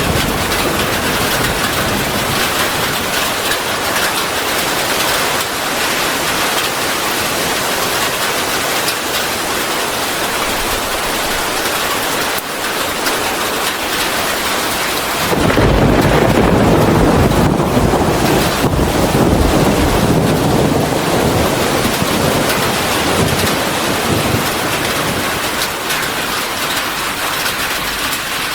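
Steady rain falling hard, with a deep rumble of thunder coming in suddenly about halfway through and dying away over several seconds.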